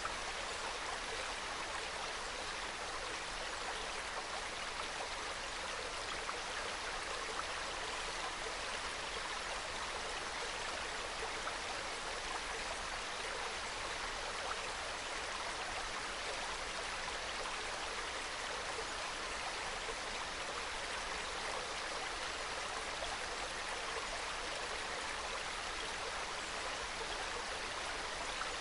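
Small mountain stream trickling and babbling over rocks, a soft, steady flow.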